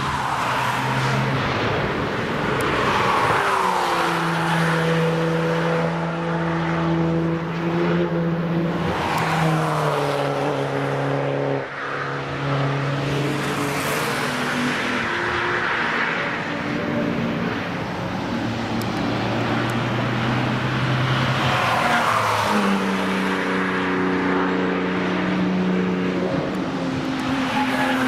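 A series of cars passing one after another at speed, their engines pulling hard. Gear changes are heard as sudden steps in engine pitch, and each car rises and fades as it goes by.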